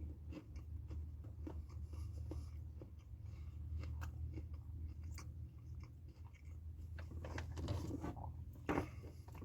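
Close chewing and crunching of Doritos tortilla chips, a run of crisp crunches, with one louder crunch near the end. A steady low hum runs underneath.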